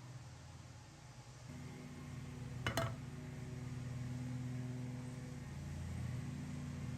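A machine hums steadily with several held low tones and grows louder about a second and a half in. A single sharp metallic clink sounds just under three seconds in.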